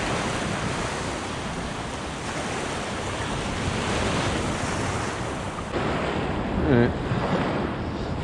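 Small ocean surf washing onto a beach, a steady rush, with some wind on the microphone.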